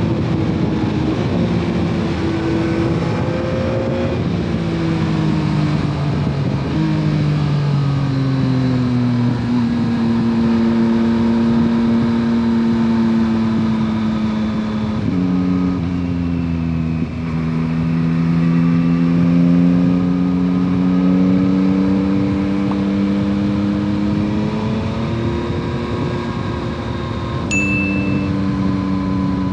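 2021 Yamaha MT-09 SP's 890 cc inline-three engine through its stock exhaust, heard while riding. The engine note climbs and falls, with several sudden pitch steps as the rider changes gear. A short high beep sounds near the end.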